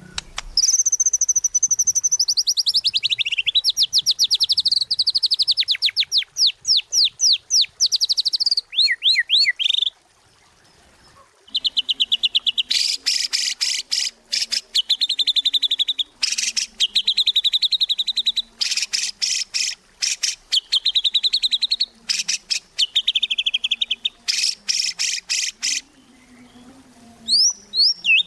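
White-rumped shama (murai batu) singing vigorously in long, rapid trills of fast-repeated high notes, broken into bursts with a short pause about ten seconds in.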